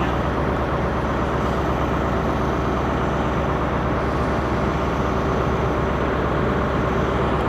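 Diesel train engine running steadily: a constant hum that holds level throughout.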